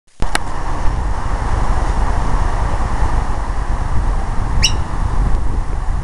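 Two short, sharp bird chirps, one just after the start and one about four and a half seconds in, over a loud, steady low rumble.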